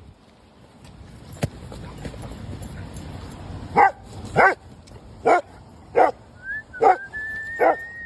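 Dog barking six times in quick succession, starting about halfway in, roughly one bark a second. A thin high whine runs under the last two barks.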